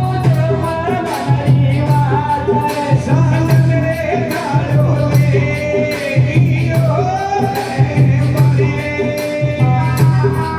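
Live Indian devotional folk music (a navratri bhajan): a sung melody over a steady, repeating drum beat with jingling hand percussion.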